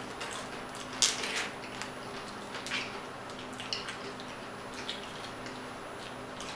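Close-up eating sounds of loaded nachos being chewed: soft wet mouth sounds with scattered crackles of tortilla chips, the loudest about a second in.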